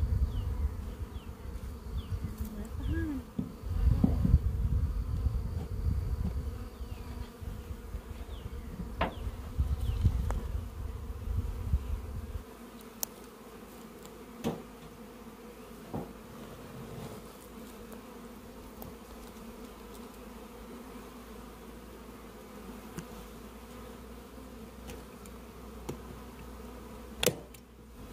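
A swarm of Italian honey bees buzzing with a steady hum. For the first dozen seconds there is a low rumble under the hum, and a few sharp knocks come later.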